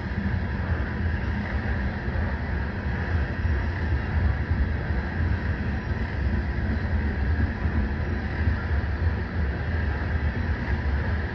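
Norfolk Southern freight train's covered hopper cars rolling past: a steady low rumble of steel wheels on the rails.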